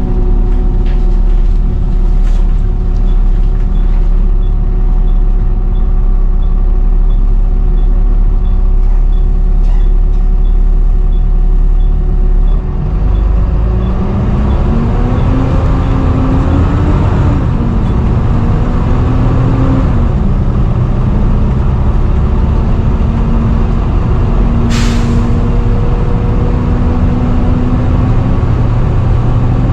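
Volvo B7TL double-decker bus engine idling with an indicator ticking, then pulling away about halfway through with a rising, stepping whine as it gathers speed: the loud 'hoover' sound. A short air hiss comes near the end.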